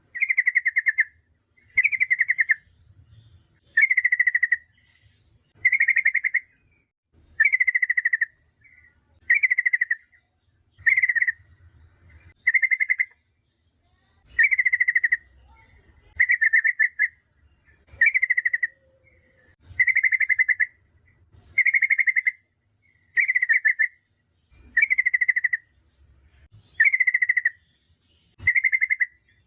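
Yellow-vented bulbul (trucukan) call, a female's call played as a lure to make other bulbuls answer: a short, rapid trill repeated at a steady pace about every second and a half to two seconds.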